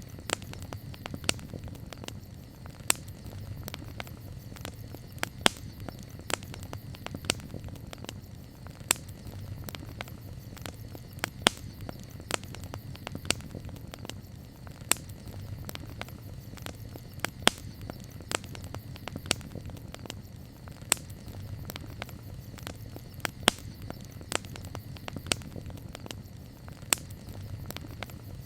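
Wood campfire burning, with irregular sharp pops and crackles over a steady low rumble of the flames.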